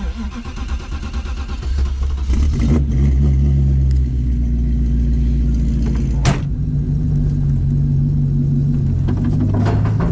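BMW E39 525d's straight-six diesel engine running steadily as the car drives, with one sharp click about six seconds in.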